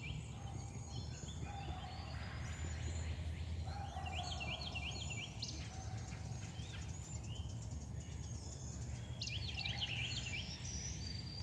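A flock of small songbirds calling: many short chirps, with quick series of up-and-down notes coming in bursts every few seconds, over a steady low rumble.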